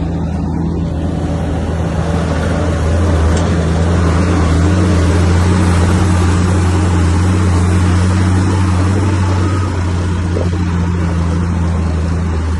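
Komatsu bulldozer's diesel engine running with a deep steady hum. It grows louder and noisier about three seconds in, then eases near the end.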